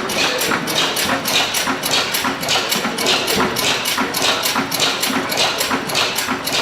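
1914 Deutz-Otto 311.E single-cylinder stationary engine running with a steady rhythmic clatter, about three beats a second.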